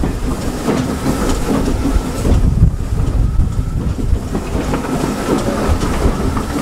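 Heritage railway passenger carriage rolling along the line, heard from an open window: a steady rumble of wheels on track with knocks and clatter over the rail joints.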